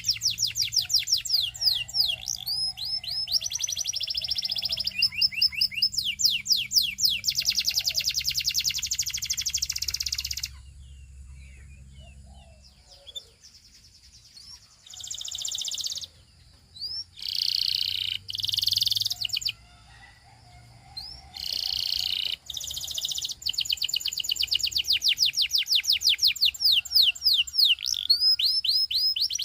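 Canary singing: long, fast trills of repeated high sweeping notes, which break off about a third of the way in, give way to a few short separate phrases, and resume as rapid trills near the end.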